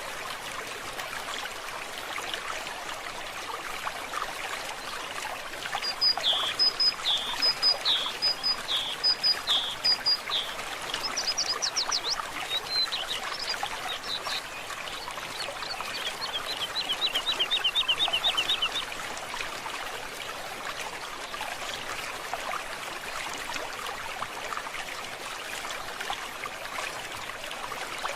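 Water trickling steadily in a stream, with a bird singing over it from about six seconds in: a string of repeated two-part notes, then a fast run of short notes that stops a little past the middle.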